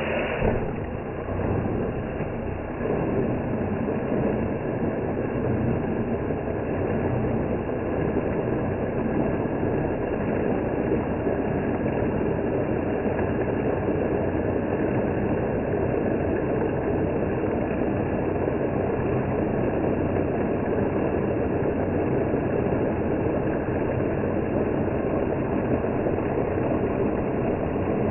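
Blender motor running steadily with water spinning in the jar: a constant mechanical whir that settles in about a second in.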